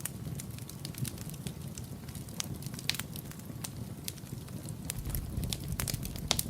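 Wood fire crackling in a fireplace: irregular sharp pops and snaps over a steady low rumble of the flames, with one louder pop near the end.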